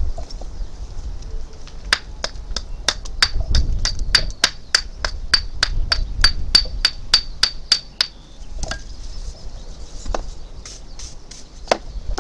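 Hammer tapping in a quick, steady run of about three sharp, ringing strikes a second for some six seconds, followed by a few scattered single knocks.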